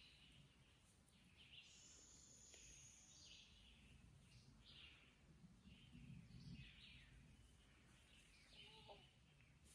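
Faint wild birds calling: short chirps roughly every second, with a high, thin trill lasting about a second and a half starting about two seconds in.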